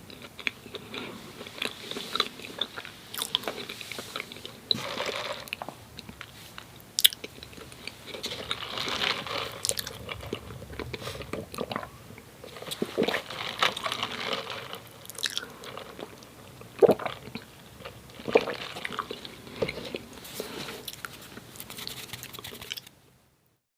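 Close-miked chewing and biting of soft doughnuts, with wet mouth noises and scattered sharp clicks and smacks. The sound stops abruptly just before the end.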